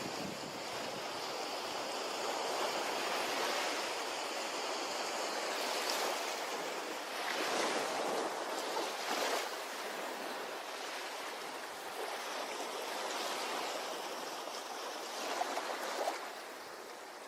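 Ocean waves breaking and washing on a beach, a continuous surf noise that swells and eases every few seconds.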